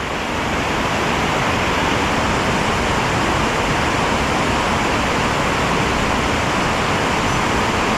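Creek water rushing, a steady even hiss.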